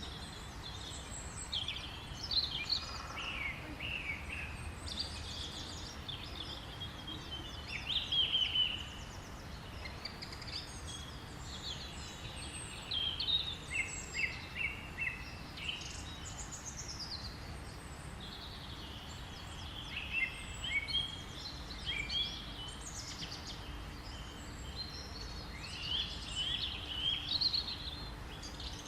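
Several songbirds singing and calling in short chirping phrases, over a steady low rumble of background noise.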